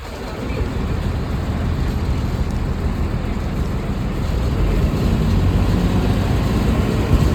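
Bus running, a steady low engine and road rumble that grows a little louder about halfway through.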